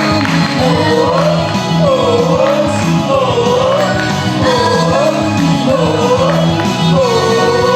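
Japanese idol pop song played through a PA, with a female lead vocal over a backing track. The melody rises and falls in a repeating phrase about once a second, then settles into one long held note near the end.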